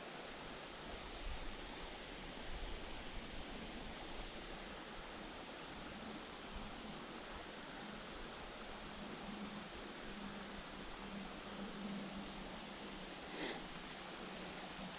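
Crickets trilling steadily in one unbroken high-pitched drone, over a soft background hiss, with one brief faint tap near the end.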